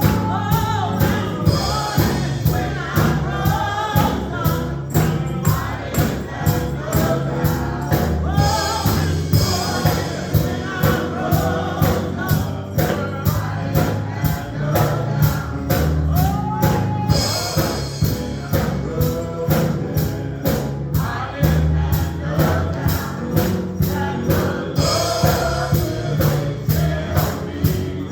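Gospel music: a choir singing over a steady beat with tambourine and bass.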